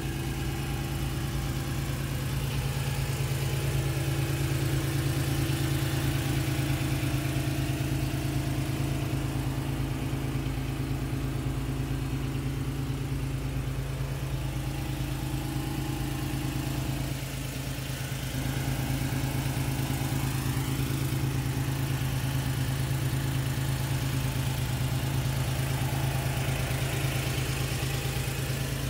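A 1992 Honda NSX's 2970 cc V6 engine idling, a steady low hum.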